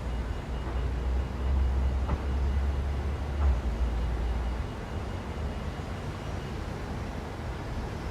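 City traffic noise: a steady low rumble of vehicles, louder for the first few seconds and then easing, with a couple of faint clicks.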